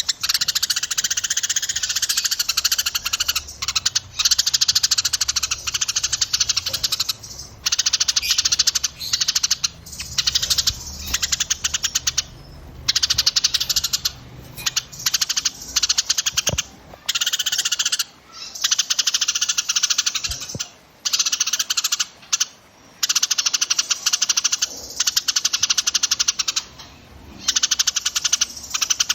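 Small songbirds singing rapid, dense trilled chatter, high-pitched, in long runs broken by short pauses.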